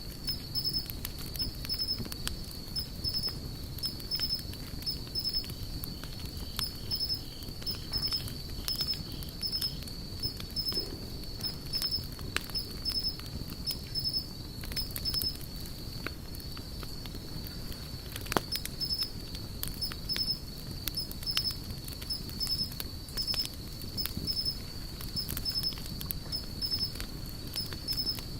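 Wood fire crackling, with irregular sharp pops over a low, steady rumble of the flames; one pop, about 18 seconds in, is louder than the rest. Throughout, an insect chirps in a high, steady, evenly pulsed trill.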